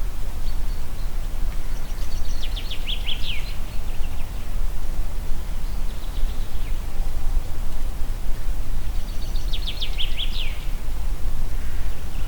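Steady low wind rumble with a songbird singing twice, each phrase a quick run of high notes lasting about a second and a half, the second coming about seven seconds after the first. Fainter bird calls come in between and near the end.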